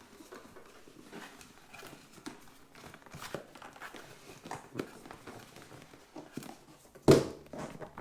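Cardboard boxes being handled: scattered scrapes and rustles as an inner box is pulled out of an outer shipping box, with one loud thump near the end.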